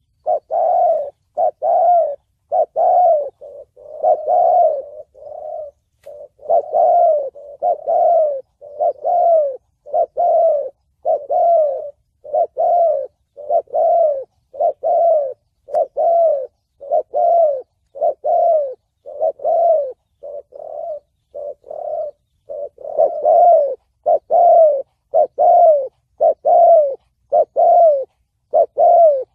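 Spotted dove (chim cu gáy) cooing in the deep 'thổ bầu' voice: a long run of low coos, each dipping slightly in pitch, about three every two seconds with a few short breaks.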